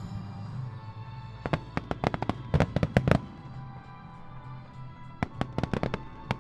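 Fireworks going off in quick clusters of sharp bangs and crackles: about a dozen packed together a second and a half in, then a few more near the end. Music plays steadily underneath.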